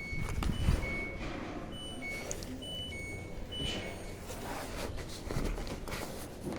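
LG WT16SSB washing machine running on test after a water pump replacement: a low rumble with a heavy thump about half a second in. Short high electronic beeps at several pitches come and go.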